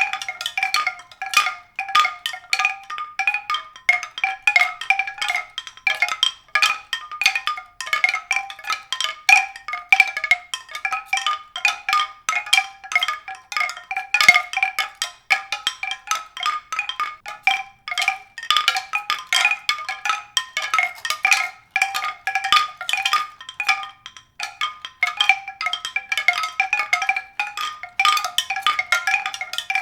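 Mallet percussion: a continuous, rapid stream of short struck notes on a few repeated pitches.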